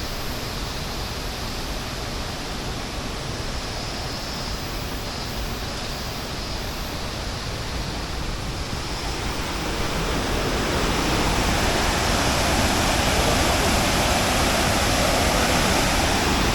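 Steady rushing of falling water from a waterfall, which grows louder about ten seconds in.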